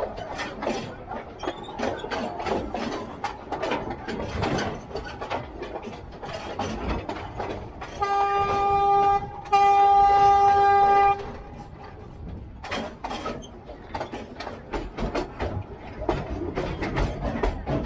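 Narrow-gauge diesel train sounding its horn in two steady blasts about eight seconds in, a short one and then a longer one. The train's running clatter of irregular knocks and rattles goes on throughout.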